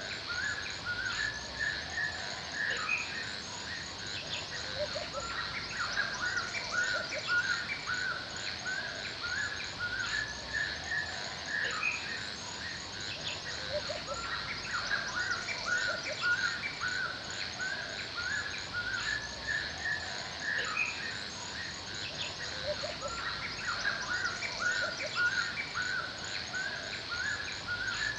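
Forest birds chirping in a dense run of short, overlapping calls, over a steady high-pitched insect chorus.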